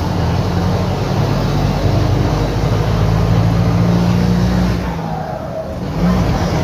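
Mercedes-Benz OF-1721 bus's diesel engine pulling under load, the sound of a holed exhaust. About five seconds in the engine note drops away, then briefly picks up again.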